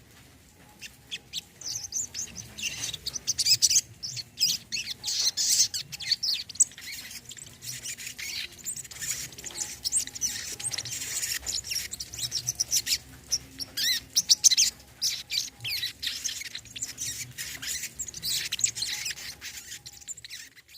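Brown-throated sunbird (kolibri kelapa) singing a fast, continuous stream of high chirps and twittering notes.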